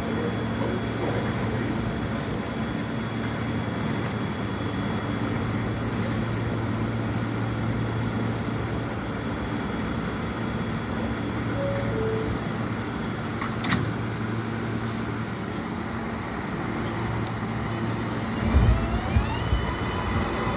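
A New York City Subway L train standing at the platform, its equipment giving a steady hum. Near the end there are a few low thumps and then a rising whine as the train's motors begin to pull it away.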